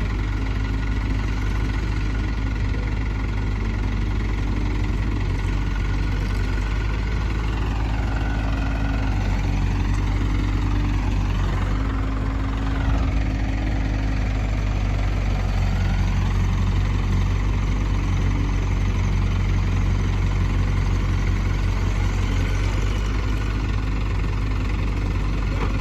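Diesel engine idling steadily with a low, even drone. In the middle a higher whine rises and falls in pitch for several seconds.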